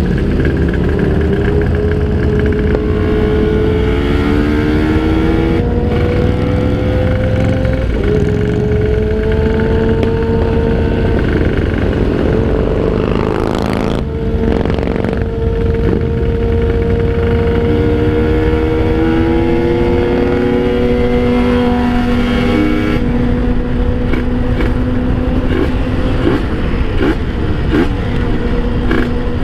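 Kawasaki Ninja 150 RR two-stroke single-cylinder engine running under way, its pitch holding fairly steady with slow rises and falls, over a low rumble of wind and road noise.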